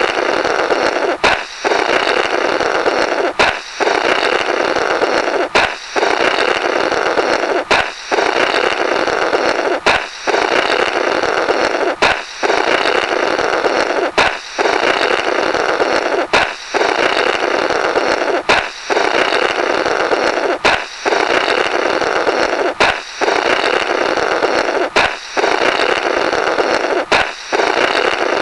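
Comic 'blorrrt' balloon sound effect, repeating about every two seconds: a sharp balloon pop, then a long noisy blow through the burst balloon's rubber.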